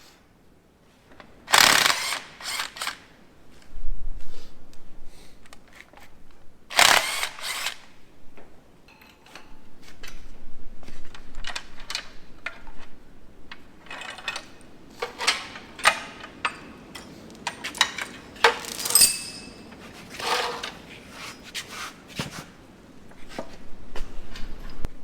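Mechanics' tool work on metal parts: two loud, roughly one-second bursts of a power tool, then scattered metal clinks and rattles of tools and bolts.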